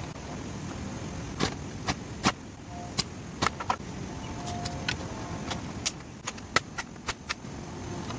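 A series of sharp knocks and clacks at irregular intervals, over a steady low background rumble.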